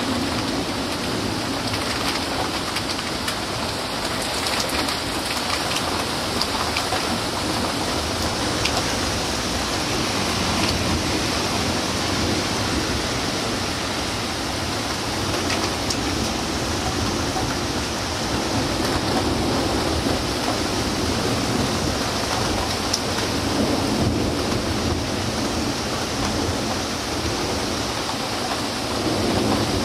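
Heavy rain pouring steadily in a thunderstorm, with a few sharp ticks of drops striking close by.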